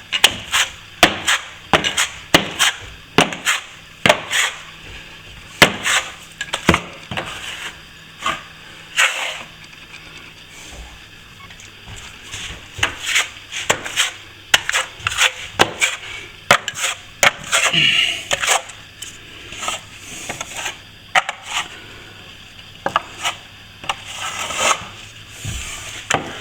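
Steel plastering trowel clacking and scraping against a hawk and the wall as the second coat of plaster is loaded and spread. The clacks come irregularly, a few a second, with brief stretches of scraping.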